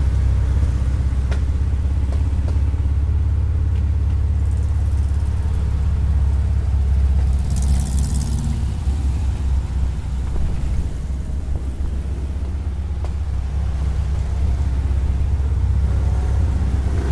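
Volkswagen Type 181 Thing's air-cooled flat-four engine running under way, heard from inside the open-bodied car as a steady low drone, with a brief burst of hiss about eight seconds in.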